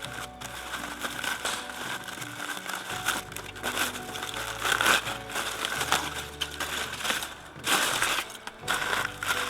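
Crinkling, crumpling handling noise in short bursts, loudest about halfway through and again near the end, over background music.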